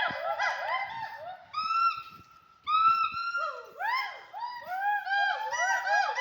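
A chorus of animal calls: many short, arched, pitched notes overlapping one another, with two longer held notes between about one and a half and three and a half seconds in.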